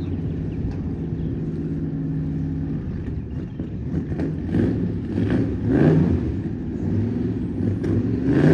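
454 big-block Chevrolet V8 in an old car, idling steadily, then revved in several blips from about three seconds in.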